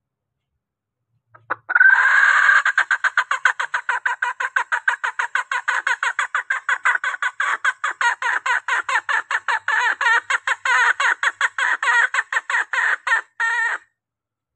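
Junglefowl hen calling: a fast, steady run of short clucks, about six a second, starting a second and a half in and stopping shortly before the end. This is the hen's call used to draw in males.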